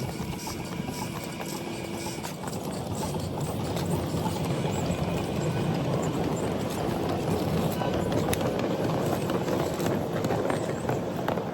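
Miniature train running on 7.5-inch gauge track with a rhythmic clatter, growing louder about four seconds in.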